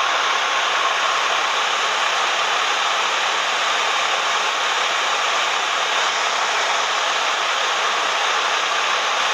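Steady cabin noise of a Cessna 172M in flight: its four-cylinder Lycoming engine, propeller and airflow running as one even, unbroken noise with no distinct beat.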